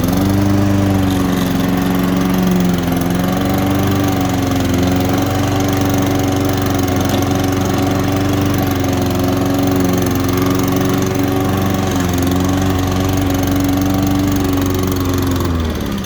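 Honda Izy lawn mower's four-stroke engine running steadily, then slowing and dying near the end. It stalls on its own, the same fault that remains after the carburettor has been cleaned.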